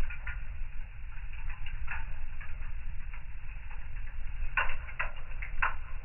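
Wood fire in a fireplace crackling, with irregular pops over a low steady rumble. Three louder pops come close together between about four and a half and six seconds in.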